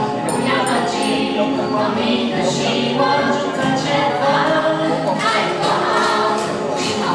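A group of voices singing together as a choir, holding long notes that shift in pitch every second or so.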